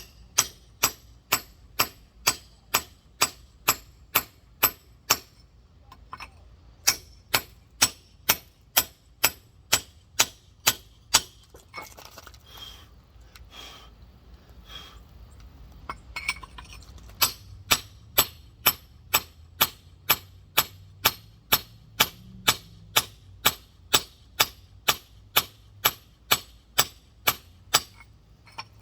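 Rock hammer tapping steadily on a large geode, sharp ringing clinks about two and a half a second, breaking off for a few seconds near the middle before carrying on.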